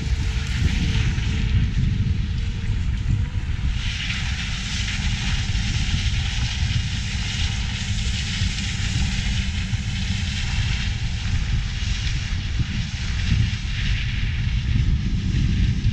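Large farm machinery running steadily under load, a deep engine rumble with a hiss over it that grows louder about four seconds in.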